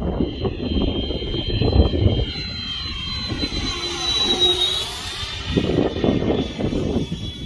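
High whine of the Freewing Avanti S model jet's 80 mm electric ducted fan as it flies past, loudest about halfway through as it comes closest. Gusty wind rumbles on the microphone throughout.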